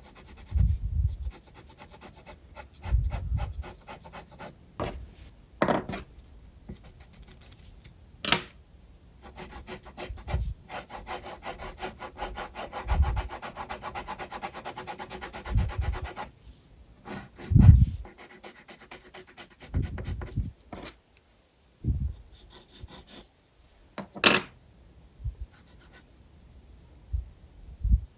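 Graphite pencil scratching on sketchbook paper in fast back-and-forth shading strokes, in runs with short pauses. There are a few sharp ticks and dull bumps, the loudest bump a little past halfway.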